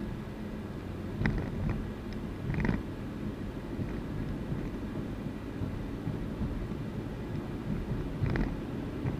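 A car driving down the road: a steady low rumble of engine and tyre noise, with a few short knocks or rattles, two in the first few seconds and one near the end.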